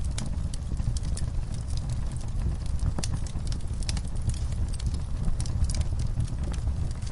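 Wood fire burning in a fireplace: irregular sharp crackles and pops over a steady low roar of the flames.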